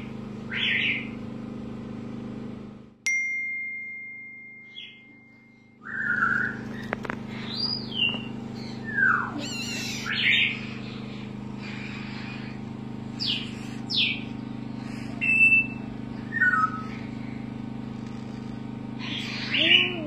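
Short, high bird chirps and squeaks come at irregular intervals, several gliding down in pitch, over a steady low hum. About three seconds in, the hum cuts out and a steady high tone sounds for nearly three seconds before the hum and chirps return.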